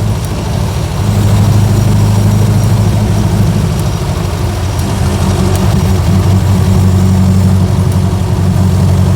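1924 Austin Seven's small four-cylinder side-valve engine running under load with the throttle held open, heard from inside the car, with a brief dip in level shortly after the start.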